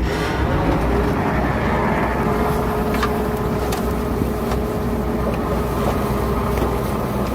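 Diesel engine of heavy earthmoving equipment running steadily under load, a deep continuous rumble with a thin steady whine over it and a few faint clicks.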